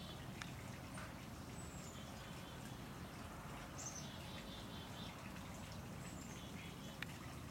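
Small birds calling, with repeated short chirps and high falling whistles, over a steady low background rumble. A few faint clicks come through, with a sharper one near the end.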